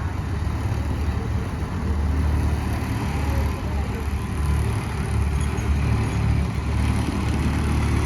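Engines of road-paving machinery running with a steady low rumble.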